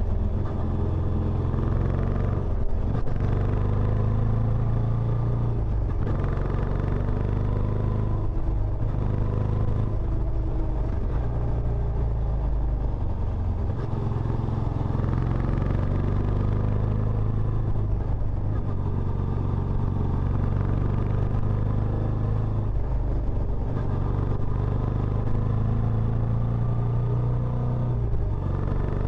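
Benelli Imperiale 400's air-cooled single-cylinder engine running steadily through its stock exhaust. It holds a deep, even note with small rises and falls in pitch.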